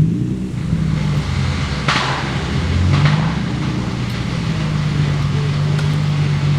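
Car engine running at a fairly steady speed, with two brief hissy bursts about two and three seconds in.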